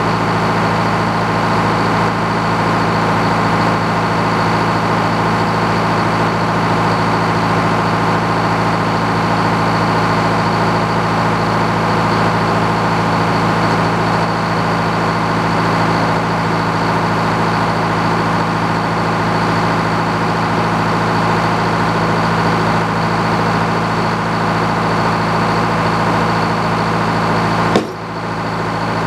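Sawmill's power unit running steadily at speed, a constant engine drone, with a brief break in the sound near the end.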